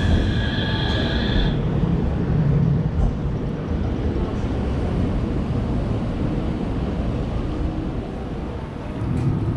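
Train running, a steady low rumble, with a high whine over it that stops about a second and a half in.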